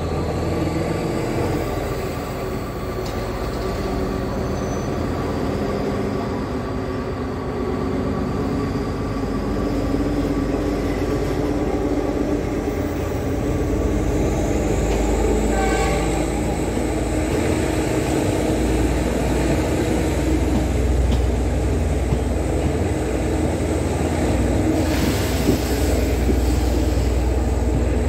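Passenger train running along the track, heard from an open carriage window: a steady rumble of wheels and engine with rushing air, growing louder in the second half. Faint high whines glide upward twice.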